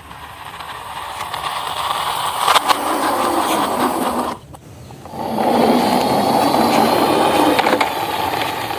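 Toy car wheels rolling across a surface with a steady whirring, in two runs with a short break about four seconds in.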